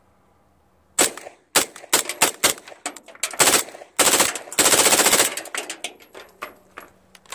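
PTR 9CT 9mm MP5-clone carbine firing unsuppressed with American Eagle 124-grain subsonic ammunition. After a second of quiet come several single shots a few tenths of a second apart, then two rapid strings of fire in the middle, then fainter clicks.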